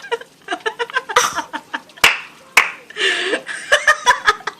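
People laughing and exclaiming in short bursts, mixed with scattered sharp clicks and knocks.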